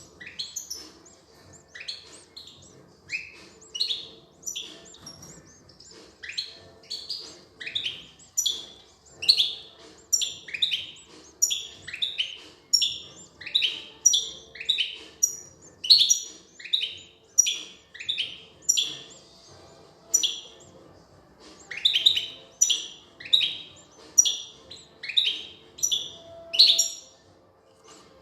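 European goldfinch chirping: a long, unbroken run of short calls, each one dropping quickly in pitch, at about one to two a second.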